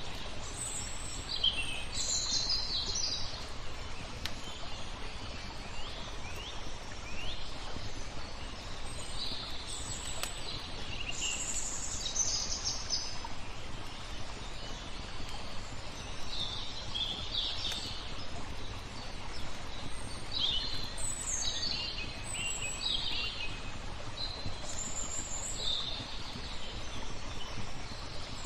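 Small songbirds chirping and twittering in short phrases every second or two, over a steady hiss of flowing water, with a few faint crackles from a wood fire.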